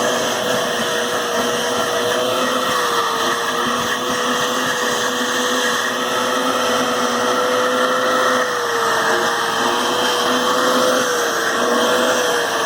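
Vacuum cleaner running steadily as it is worked over a dog's coat: a constant motor whine over airflow noise. The pitch wavers slightly now and then in the second half.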